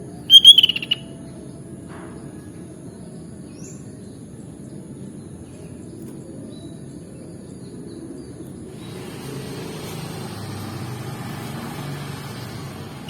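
Sooty-headed bulbul giving a short, loud burst of quick chirping notes about half a second in, followed only by a few faint short chirps. A thin steady high tone and a low background rumble run underneath, with a hiss coming up about nine seconds in.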